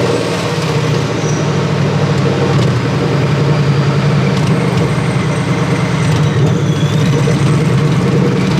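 Supercharged Ford 4.6 2V SOHC V8 of a Mustang GT idling loud and deep through open exhaust cutouts off the X-pipe, with no mufflers or resonator. The idle is steady with a lumpy pulse after the revs settle.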